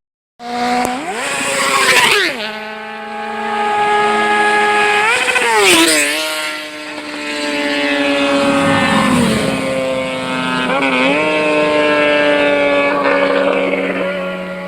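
Sport motorcycle engine revving and accelerating: the pitch climbs steeply twice, about two and six seconds in, and falls away after each, then holds steadier with a brief dip near eleven seconds. It opens with a split second of silence.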